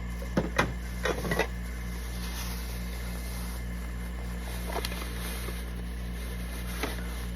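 A metal spoon knocking and scraping against a can several times in the first second and a half, with two fainter taps later, as the last of the green chilies are scraped out into the pot. Under it runs a steady low hum.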